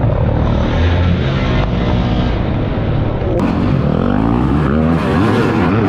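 Several pit bike engines revving up and down over one another as they race, the pitch of each rising and falling with the throttle.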